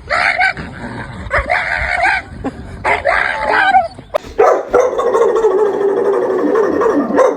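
Golden retriever vocalizing: three short yipping calls, then one long drawn-out call of about three seconds.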